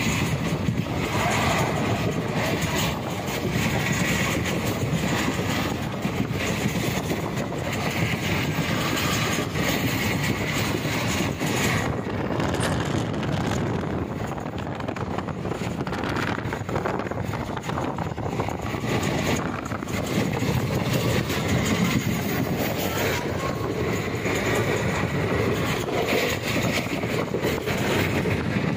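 Passenger train running at speed, heard from inside the coach: a steady rumble of wheels on the rails with rushing air and scattered rail clicks.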